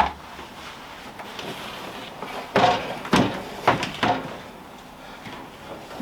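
Short plastic knocks and clatter as things are moved about inside a portable 12 V fridge-freezer's cabinet: one sharp knock at the start, then a cluster of several knocks a few seconds later.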